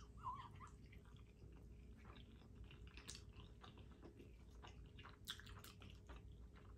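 Faint chewing of a mouthful of Cheetos-flavored macaroni and cheese, with small wet mouth clicks. In the second half, light clicks come as a fork picks through the pasta.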